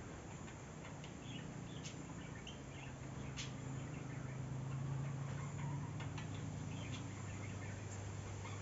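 Farmyard ambience: chickens clucking, with scattered short high bird chirps over a low steady hum that swells in the middle.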